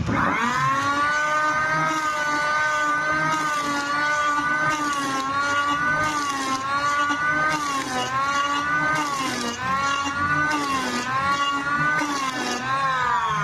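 Electric hand planer started up, its motor whine rising to speed, then shaving wood with the pitch dipping each time the blade bites, and switched off near the end, winding down.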